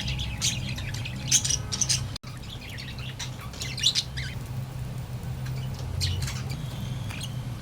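Budgerigars chirping and chattering in quick short calls, busiest in the first two seconds and more scattered after, over a steady low hum.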